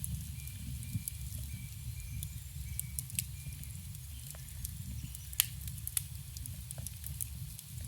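Campfire burning: wood crackling with scattered sharp pops, the loudest about five and a half seconds in, over a low steady rumble.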